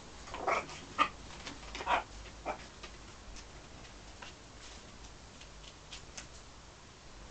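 Blue-and-gold macaw giving four short calls in the first two and a half seconds, followed by a few faint clicks.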